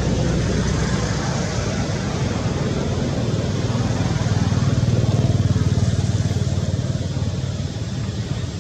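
A small engine running steadily with a rapid chugging pulse, growing louder about halfway through and then easing off, as a motorbike or similar small motor would when it comes close and moves away.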